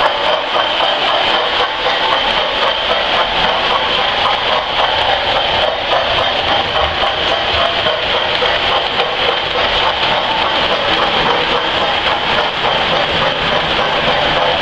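Lionel 390E standard-gauge tinplate locomotive running with a ten-car train: a steady running noise of metal wheels rolling on the track and the electric motor.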